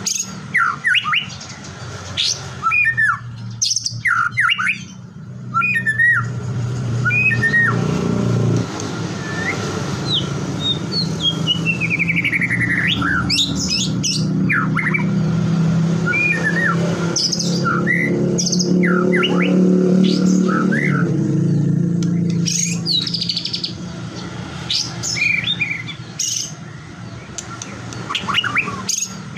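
White-rumped shama singing, a fast run of varied whistles, sweeps and harsh chattering notes. A low steady rumble rises under the song in the middle and fades out before the end.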